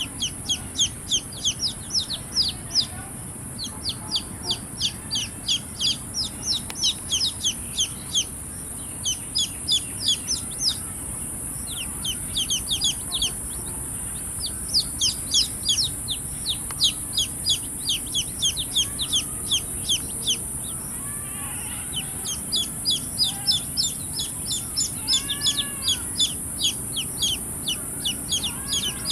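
Baby chicks peeping shrilly, rapid runs of high, falling peeps several a second with short pauses between runs, and a few lower, softer calls among them in the second half. A steady high hiss sits behind them.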